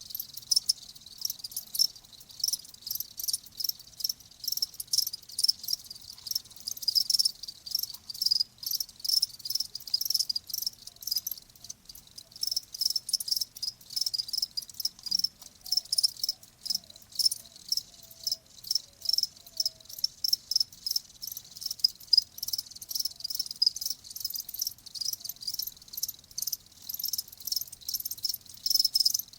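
Crickets chirping, a dense chorus of rapid, high-pitched trills with no break.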